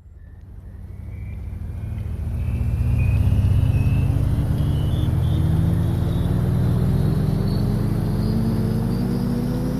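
Coffee machine running: a mechanical hum that starts up, builds over the first three seconds or so and then holds steady, its pitch slowly rising.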